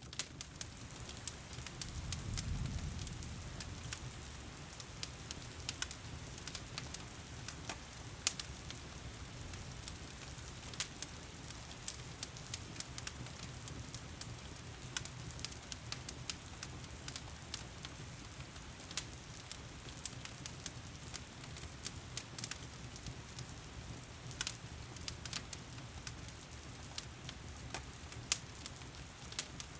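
Wood fire crackling and popping in a fireplace over a steady hiss of heavy rain. A low rumble swells briefly about two seconds in.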